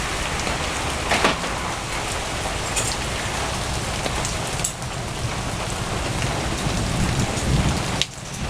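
Steady rain falling during a thunderstorm, with a few sharper drop impacts standing out from the downpour.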